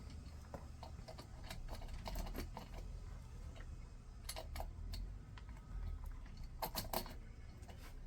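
Light clicks and taps of small plastic and metal chainsaw parts being handled and fitted by hand during reassembly around the choke, with a few sharper clicks about four and a half and seven seconds in.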